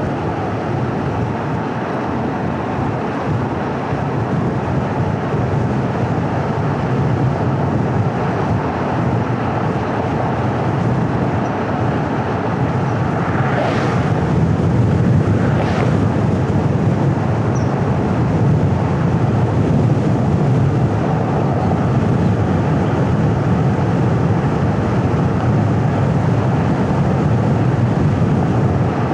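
Steady low hum and road noise of a car driving, engine and tyres on the pavement. About halfway through come two short rushing sounds a couple of seconds apart.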